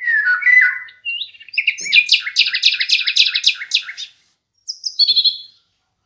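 A songbird singing. It starts with a few falling whistled notes, then gives a fast run of about five bright repeated notes a second for roughly two seconds, and ends with a short high flourish.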